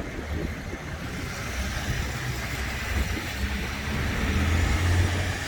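A vehicle engine running at idle, a steady low rumble that grows louder about four to five seconds in.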